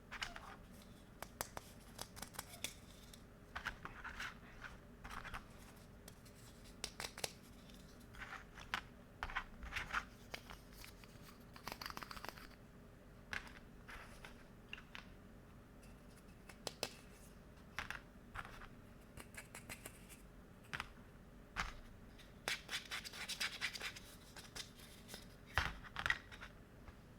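Plastic kids' kitchen playset pieces being handled: scattered light clicks, taps and scrapes, with a denser stretch of scraping and rustling about three quarters of the way through.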